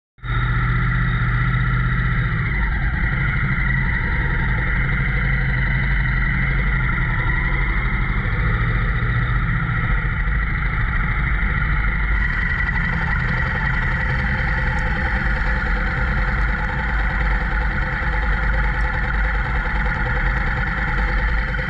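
Motorcycle engine running steadily as the bike is ridden along, a constant drone that starts abruptly.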